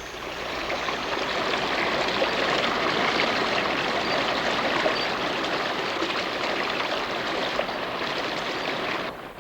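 Running water of a stream, a steady rush that fades in at the start and stops abruptly just before the end.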